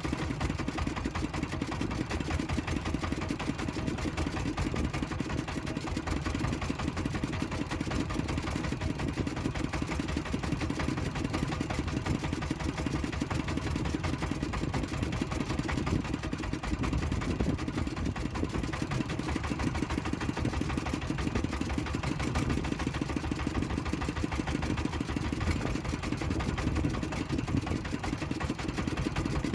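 Small fishing boat engine running steadily at an even speed, a fast continuous chugging.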